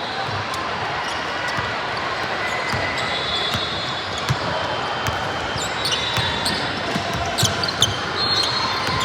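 Indoor basketball game: a ball thudding on a hardwood court and sneakers squeaking, over a steady murmur of spectators in a gym.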